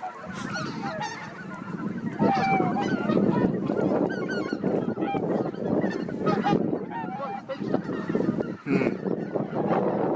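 A flock of greater white-fronted geese calling, with many calls overlapping into a dense chorus that grows louder about two seconds in.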